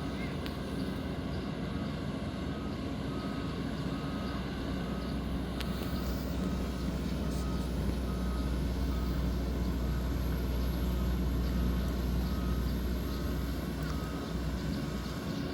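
Heavy diesel engine of a Komatsu PC200-10M0 excavator or its dump truck running with a steady low rumble. Over it, a travel or backup alarm beeps in a steady series, a little faster than once a second.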